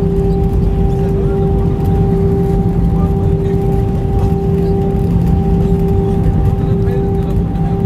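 Airbus A320 cabin noise after landing: a steady low rumble with an even hum from the jet engines and air systems.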